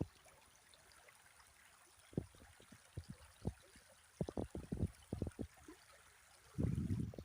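River water flowing faintly, with irregular dull low thumps and knocks throughout and a longer low rumble about six and a half seconds in.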